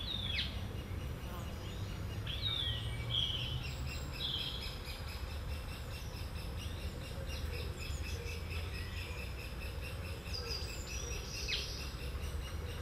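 Outdoor birdsong: small birds give scattered short chirps and a few quick downward-sliding calls, over a steady low rumble.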